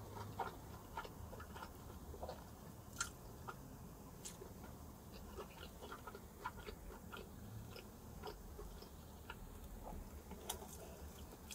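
Quiet chewing of pepperoni pizza: soft, irregular mouth clicks and wet smacks, with a few sharper clicks now and then.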